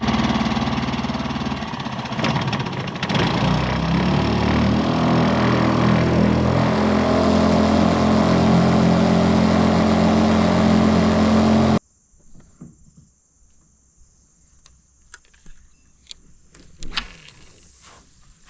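A small boat's outboard motor running steadily, picking up a little about three seconds in, then cutting off abruptly near the twelve-second mark. After that it is quiet except for a few faint clicks.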